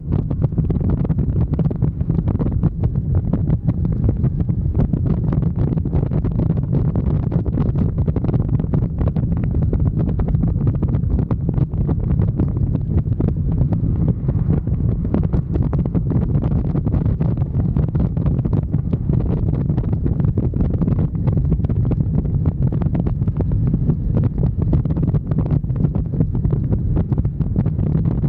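Wind buffeting the microphone of a moving motorcycle: a steady, loud low rumble with constant fluttering, the engine lost under it.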